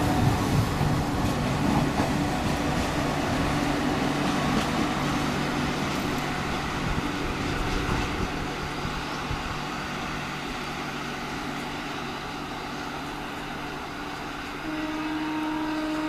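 A passing express train drawing away, its rumble and wheel noise slowly fading. A steady pitched tone comes in near the end.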